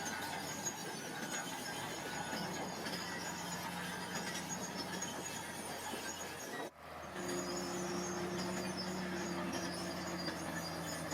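Heavy earth-moving machinery running steadily with a metallic squeal, typical of crawler tracks; the sound breaks off briefly about two-thirds of the way through and resumes with a steady held tone.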